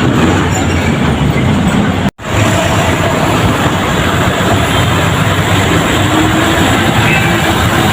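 Loud, steady roadside traffic noise of heavy vehicles passing close by, with an engine rumble. The sound cuts out abruptly for a moment about two seconds in, then carries on.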